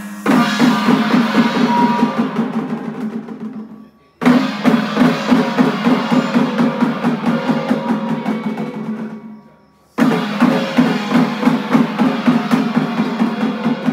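Drum-led percussion music with rapid, dense beats, heard in three passages that each begin abruptly and fade away, about 4 s in and 10 s in.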